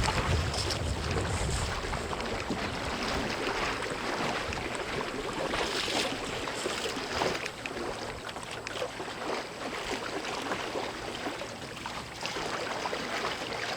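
Water rushing and splashing along the hull of a Melonseed skiff, a small wooden sailing boat under way in strong wind, with wind buffeting the microphone, heaviest about the start.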